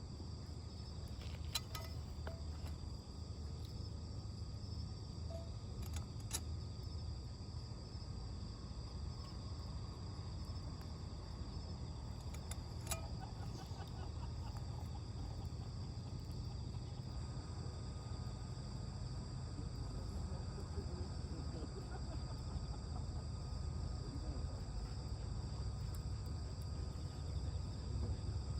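Steady chorus of crickets and other insects in a high, unbroken trill, over a low rumble, with a few sharp pops from a small wood campfire.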